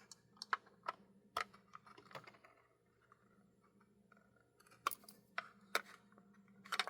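Light plastic clicks and taps from handling and prying at the tight plastic shell of an HO scale model locomotive, scattered through the first two seconds, pausing, then bunching again near the end.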